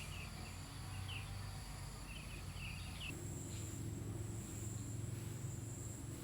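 Steady high-pitched insect trilling in rural ambience, with a few short chirps during the first three seconds.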